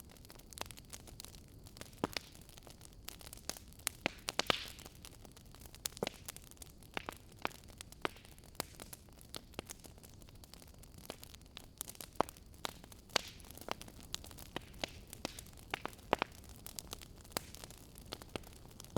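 Wood fire crackling in a fireplace: irregular sharp pops and snaps over a low steady burn, with a brief hiss about four and a half seconds in.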